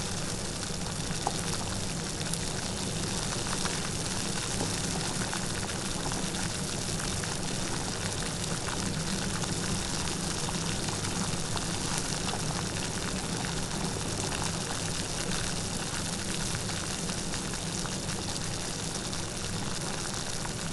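Light rain falling steadily: an even hiss of rainfall with many small drop ticks, no thunder.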